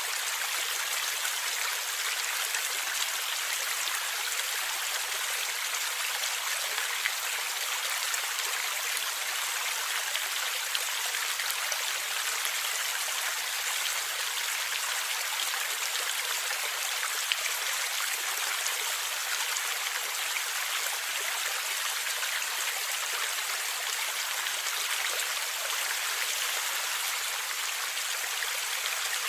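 Forest stream with water gurgling and splashing over rocks in a steady, unbroken rush.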